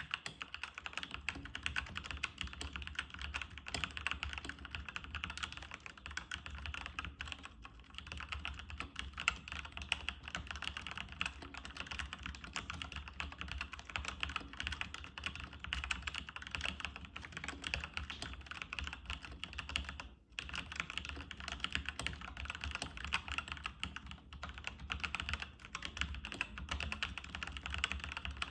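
Jiyoulang K96 keyboard being typed on quickly and continuously, a dense run of key clicks, with a brief pause about twenty seconds in.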